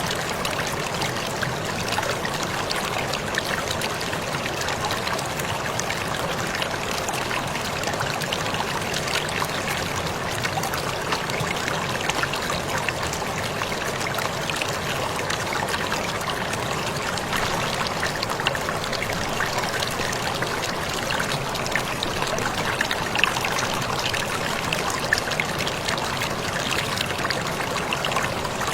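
Waterfall pouring steadily, a continuous rush of water with many small splashes and drips.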